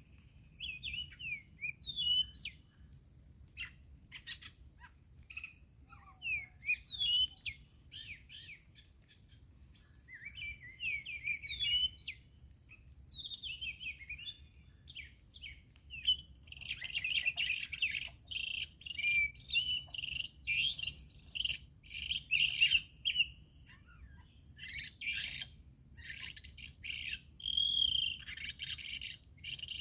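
Songbirds chirping and singing in short, quick warbled phrases, growing busier about halfway through, over a steady high-pitched tone.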